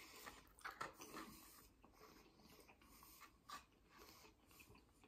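Faint chewing of a crunchy, overcooked chicken wing: a few soft crunches and mouth clicks spread through otherwise quiet room tone.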